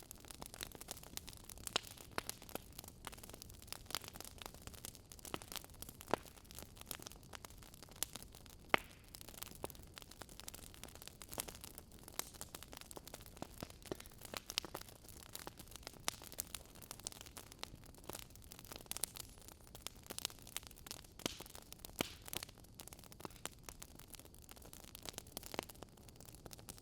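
Burning wood logs crackling steadily, with frequent sharp pops and snaps scattered irregularly over a soft low hiss.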